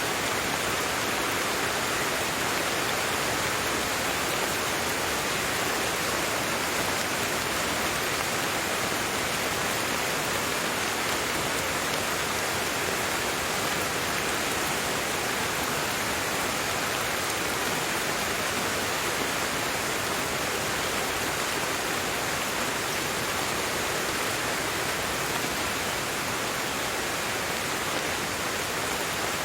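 Steady rainfall: a dense, even hiss of rain with no separate drops or thunder standing out.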